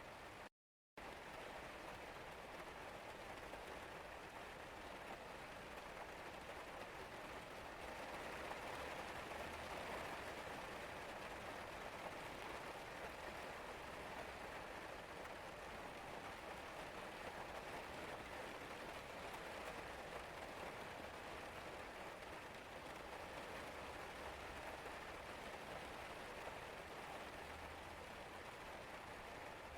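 Steady rain falling and pattering, an even hiss of drops outside a window, with a faint low rumble underneath. The sound cuts out completely for a split second about half a second in, then resumes unchanged.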